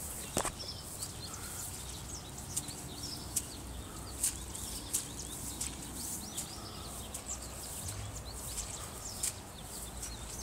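Small birds chirping over and over in short calls, over a low steady background rumble.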